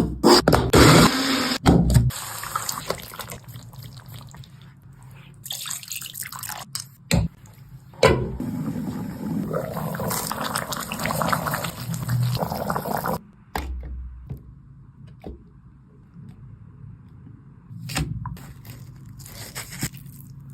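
Cooking sounds in short, abruptly cut clips, with water or liquid pouring and splashing.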